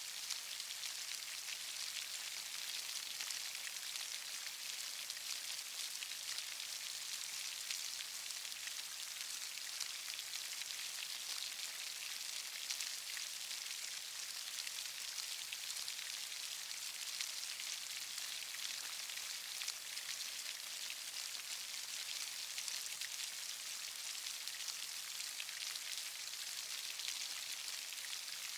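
Steady rain falling, a dense even patter of many fine drops.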